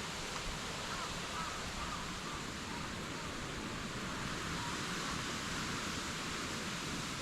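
Steady outdoor background noise, an even hiss, with faint distant calls wavering through it about a second in and again in the second half.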